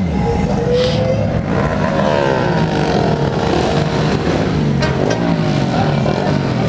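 Motorcycle engines revving, their pitch rising and falling several times, with more than one engine running at once.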